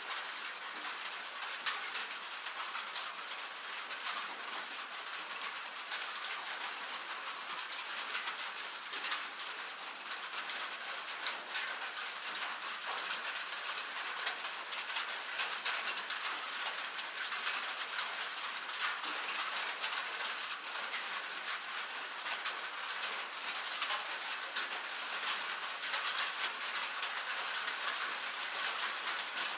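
Steady rain falling on a metal roof: a dense, even patter of drops with many sharper individual ticks.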